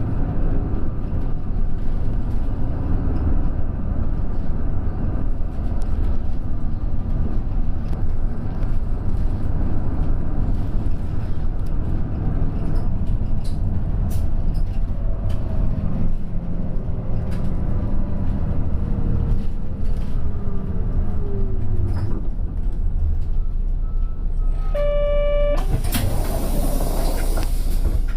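Bus heard from inside, its engine and road rumble running steadily while a drivetrain whine falls in pitch partway through. Near the end a short electronic tone sounds, followed by a burst of compressed-air hiss.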